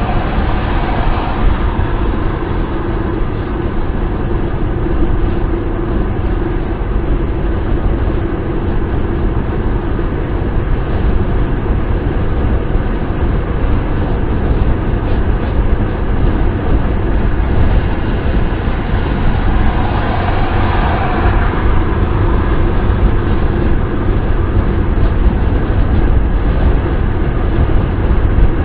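Steady wind and road noise of a car driving, a deep rumble with a faint steady hum running under it.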